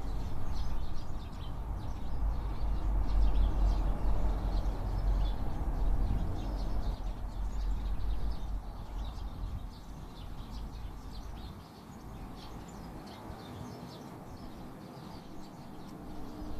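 Eurasian tree sparrows chirping in many short, quick calls throughout, over a low rumble that is loudest in the first half and fades after about nine seconds.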